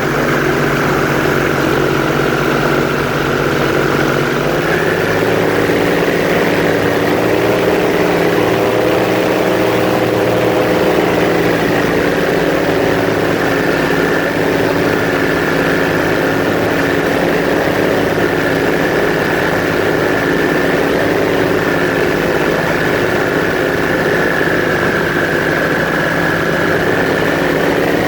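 Airboat engine and propeller running steadily, the pitch stepping up a little about four to five seconds in and then holding.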